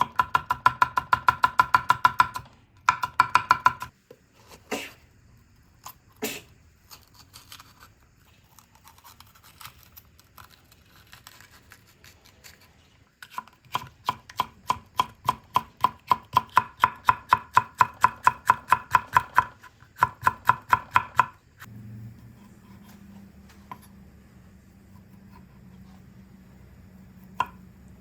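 Knife chopping rapidly on a cutting board, about five strokes a second, in two long runs with a pause of scattered knocks between them. A low steady hum starts about three-quarters of the way in.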